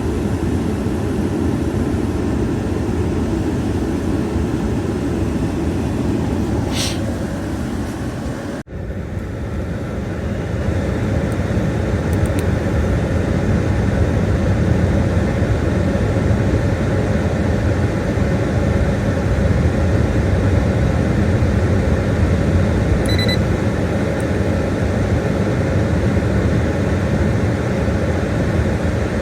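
Chevrolet truck running with the air conditioning on: a steady mix of engine idle and A/C blower fan noise, with a brief break about nine seconds in.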